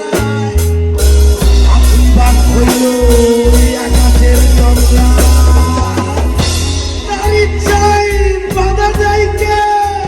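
A rock band playing a song, with drums and heavy bass under long held melody notes.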